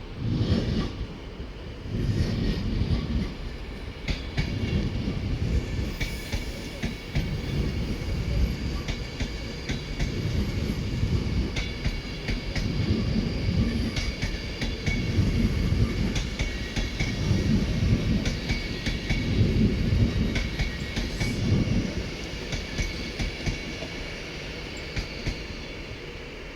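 Train moving along the station tracks, its wheels clattering over rail joints and points in a regular rhythm, a swell about every two seconds, over a steady high-pitched whine. It is loudest about three-quarters of the way through, then eases off.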